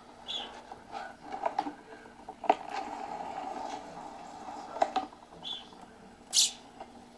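Sparrow moving about on a computer: light irregular taps and clicks, two short high chirps and a brief rustle near the end.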